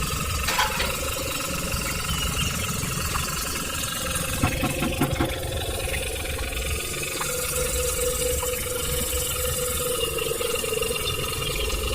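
A small engine or motor running steadily, with a few light clicks about four to five seconds in.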